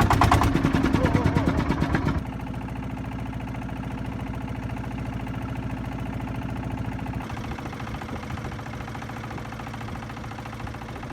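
Boat engine running as the boat heads out to sea: loud with rapid pulsing for about two seconds, then a steady, quieter drone.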